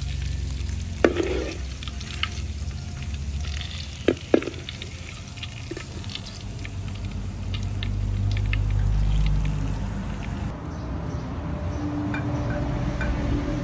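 Beef pieces sizzling in a steel wok while a metal spatula scrapes and stirs them, with sharp clinks of the spatula on the pan about a second in and twice around four seconds in. A steady low rumble runs underneath.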